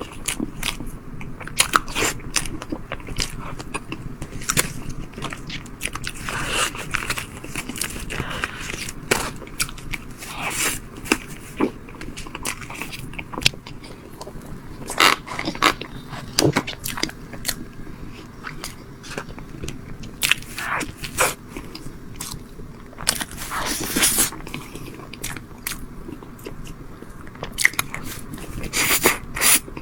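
Close-miked eating: a person biting and chewing a tiramisu dessert, with many sharp, irregular crunchy clicks and wet mouth sounds.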